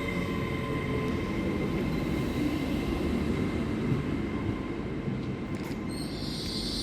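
A train moving through a station: a steady low rumble of wheels on rail with a thin steady whine that fades, and a hiss starting near the end.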